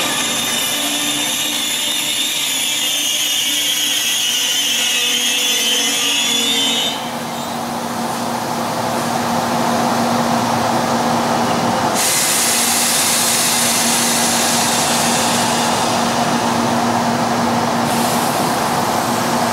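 Train running past on the rails, with several steady high whining tones over the rolling noise. About seven seconds in the sound changes abruptly to steadier running noise with a low steady hum, and it gets brighter and hissier for several seconds from about twelve seconds in.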